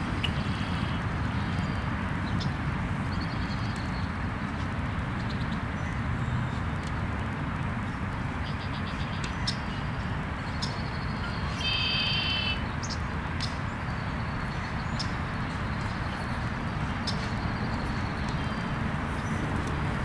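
Birds chirping in short repeated notes over a steady low rumble of outdoor background noise, with one louder call of about a second near the middle.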